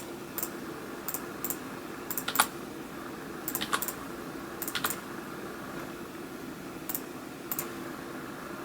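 Scattered clicks of a computer mouse and keyboard, a dozen or so, often in quick pairs, over a steady low hum.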